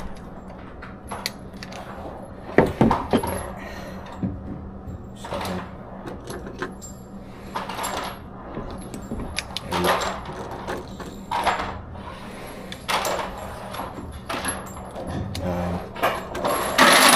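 Scattered metallic clicks and clinks of gear being handled over a steady low hum, with a louder clatter about three seconds in and again near the end.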